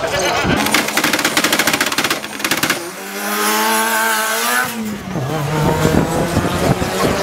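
Drag race car's engine crackling with rapid, even pops for about two seconds, then pulling hard with its pitch climbing. About five seconds in the pitch drops suddenly at a gear change, and the engine keeps pulling and climbing again.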